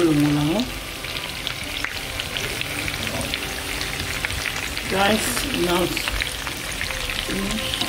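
Chicken pieces frying in hot oil in a pan: a steady crackling sizzle, with a spatula turning the pieces. A brief voice is heard about five seconds in.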